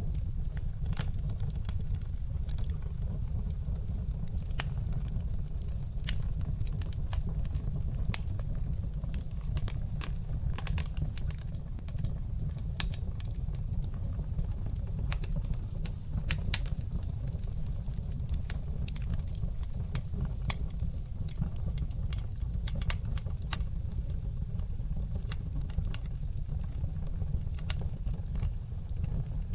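Wood fire burning in a fireplace, crackling: irregular sharp pops and snaps scattered over a steady low rumble.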